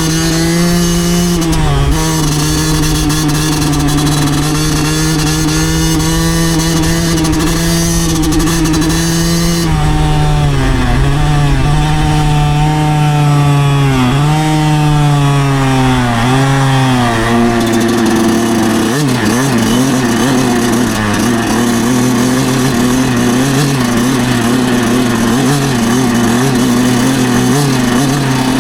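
2009 Yamaha YZ125's single-cylinder two-stroke engine running at steady revs. About ten seconds in, the revs dip and pick up again several times, then settle at a lower, steady pitch a little past halfway.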